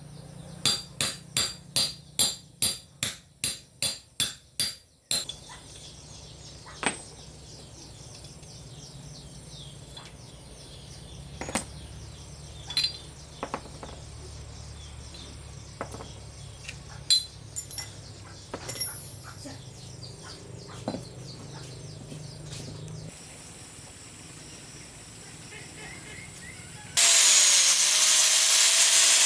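Hammer blows on metal, about two to three a second, for the first five seconds, then scattered clinks and knocks of hand tools during repair work on a pickup's front-wheel-drive parts. Near the end a loud power tool starts up, running with a wavering whine.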